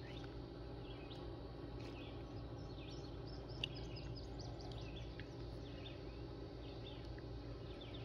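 Small birds chirping in short, quick calls over a steady low hum, with one sharper chirp about three and a half seconds in.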